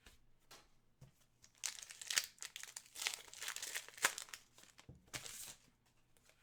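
Crinkling and tearing of a trading card pack's wrapper as it is handled and opened, in uneven stretches with small clicks; the longest runs from under two seconds in to past four seconds, with another short one around five seconds.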